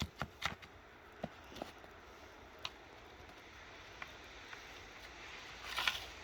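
Chisel end of a steel tool chipping ice out of a railway switch: a few quick sharp strikes in the first half second, then scattered single ticks, and a short rough scrape near the end.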